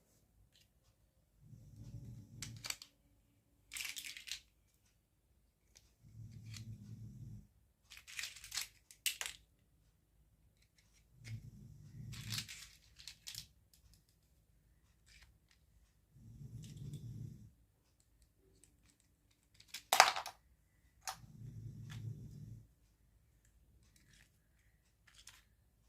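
Plastic packaging and small toy parts being handled: short bursts of crinkling and tearing with small clicks, and one sharp click about twenty seconds in. Under them a soft low sound swells about every five seconds.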